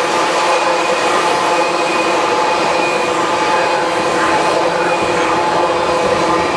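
Railroad tank cars of a freight oil train rolling steadily past, a continuous rumble of steel wheels on rail with a steady high ringing of wheel squeal over it.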